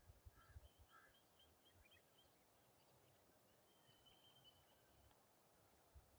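Near silence with faint birdsong: a run of short high chirps, then a longer trill about four seconds in, over scattered low thumps.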